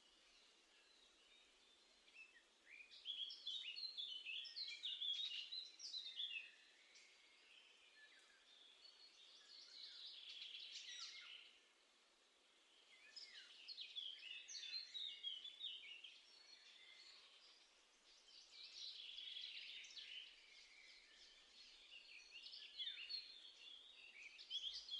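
Songbirds singing: quick runs of high chirping notes in phrases of two to four seconds, about five phrases with short pauses between, over faint background hiss.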